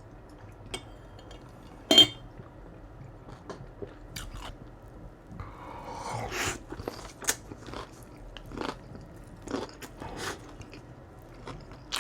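Close-miked chewing and crunching of food, with irregular crisp clicks and a sharp, loud clack about two seconds in.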